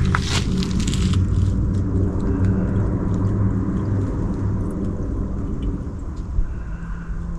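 Chevrolet C60 wrecker's gasoline engine running steadily on gas poured into the carburetor, a low even engine sound with a few rattly bursts in the first second.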